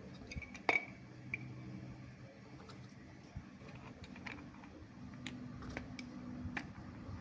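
Scattered light clicks and taps of small hard objects being handled, with one sharper clink that rings briefly about a second in, over a steady low hum.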